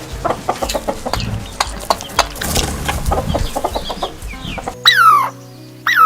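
Chickens clucking among a busy scatter of short clicks and scratchy sounds. Near the end come two loud, short calls that fall steeply in pitch, over background music.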